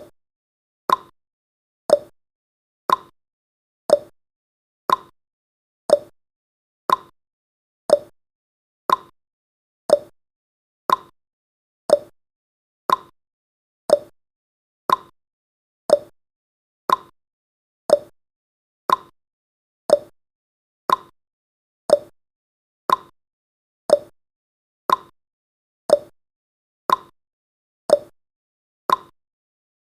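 Countdown timer's tick sound effect: one short, sharp tick each second, evenly spaced, with silence between.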